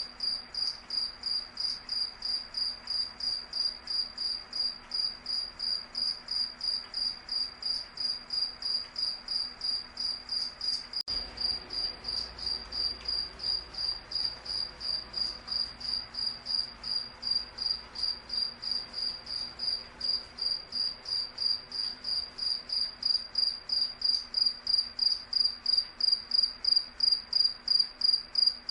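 A cricket chirping in a steady, even rhythm, about three high chirps a second, getting somewhat louder in the last few seconds.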